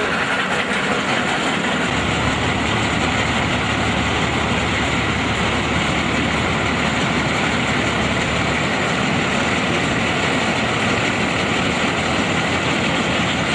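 Combine harvester running steadily, its engine and machinery making a loud, even, dense noise.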